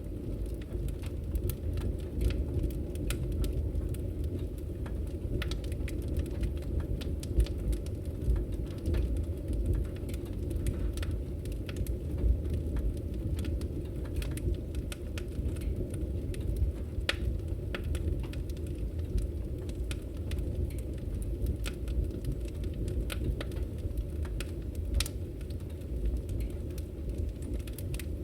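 Wood fire burning in a fireplace: a steady low rumble of flame with frequent, irregular sharp crackles and pops from the firewood.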